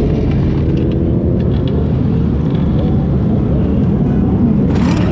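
Motorcycle engines running under acceleration, their pitch slowly rising and overlapping as if from more than one bike, over heavy wind rush on the camera microphone. A brief burst of noise comes near the end.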